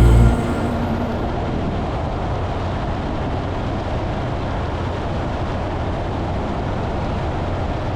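Steady road noise of a car driving, an even low rumble.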